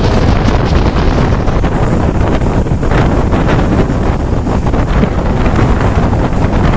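Loud wind buffeting the microphone on a speedboat under way, over the rush of water.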